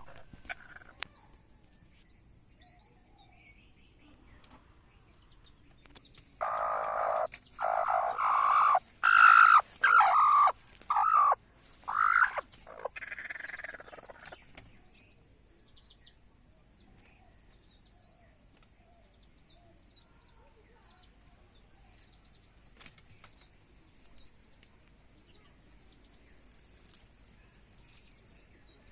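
A hen calling loudly in a run of about ten short calls over some eight seconds, starting about six seconds in, a few of them rising in pitch. Faint chirping of small birds goes on throughout.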